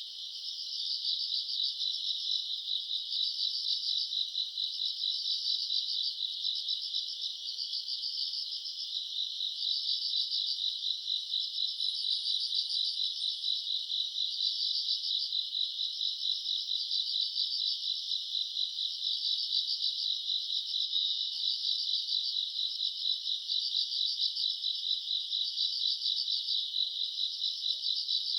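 A dense chorus of crickets and other grass insects chirping in rapid, high trills that swell in phrases about every two seconds, with fainter, higher chirping above.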